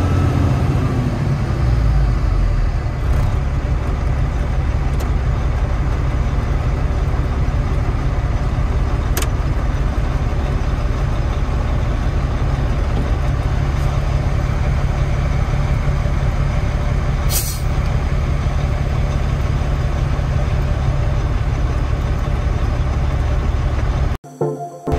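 Heavy vehicle engine running steadily at an even pitch, with a few light clicks and a short hiss about two-thirds of the way through. The sound drops out for a moment just before the end.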